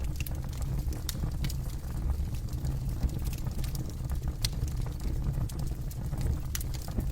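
Campfire burning with a steady low roar and irregular sharp crackles and pops from the burning wood.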